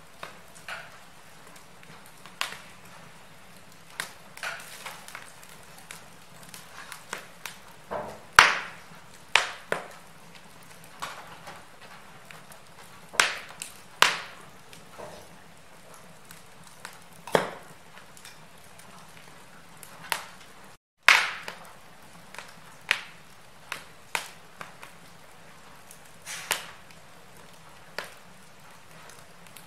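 Wood fire crackling in a fireplace: irregular sharp pops and snaps, some much louder than others, over a soft steady hiss. The sound cuts out for a fraction of a second about two-thirds of the way through, then comes back with a loud pop.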